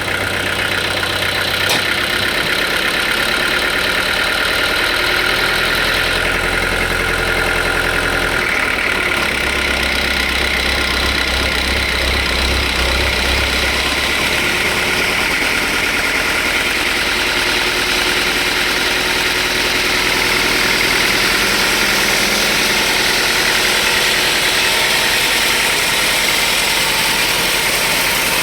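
Sawmill machinery running steadily, a constant motor sound with a steady whine; its low hum changes about six and nine seconds in, and a higher, hissing band grows stronger from about nine seconds on.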